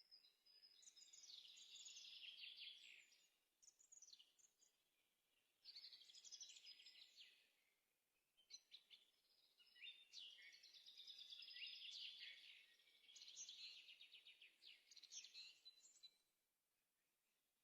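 Small birds chirping and trilling faintly in repeated phrases of quick notes, each a second or two long, with short pauses between them. The singing stops about a second before the end.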